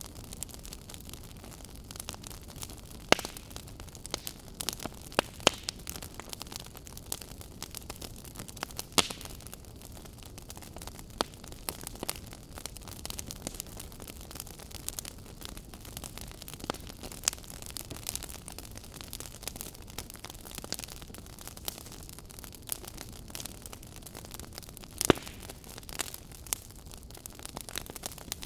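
Burning firewood crackling: frequent irregular sharp pops and snaps over a steady hiss, with the loudest pops about three seconds in and near the end.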